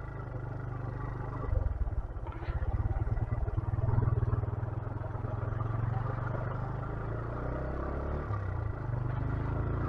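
A 125cc motorcycle engine running as the bike is ridden, its note swelling and easing a couple of times.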